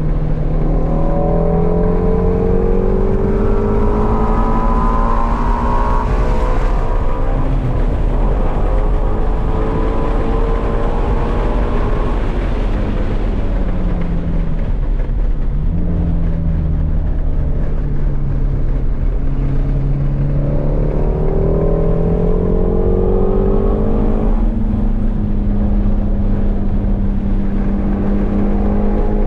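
Ford Mustang Shelby GT350's 5.2-litre flat-plane-crank V8 driven hard, heard from inside the cabin. The engine note climbs over the first few seconds, sinks to its lowest around the middle as the car slows, then climbs again and holds near the end.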